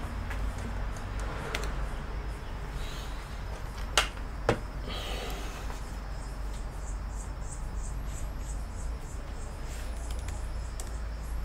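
Two sharp clicks about half a second apart, over a steady low hum, with faint high chirping in the background.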